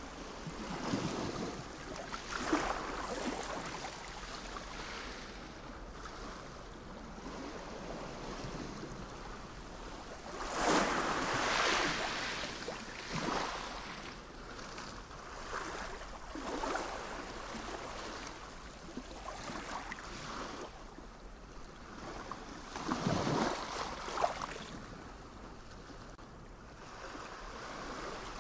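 Sea waves washing in, with a swell of surf every few seconds. The biggest swells come about ten seconds in and again about two-thirds of the way through.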